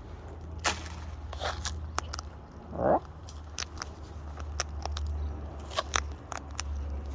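Cockatoos cracking and crunching seed with their beaks: a run of sharp, irregular cracks and clicks. A single short call from a bird cuts in about three seconds in.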